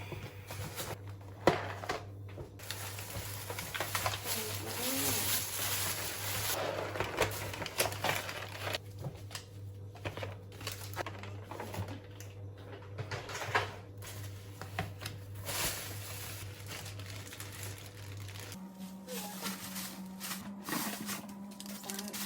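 Crinkling, rustling and scattered clicks of things being handled, over a steady low hum that changes to a higher hum near the end.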